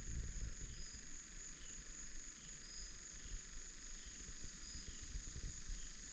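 Crickets trilling steadily at a high pitch, with short fainter insect notes repeating every second or two, over a low rumbling background.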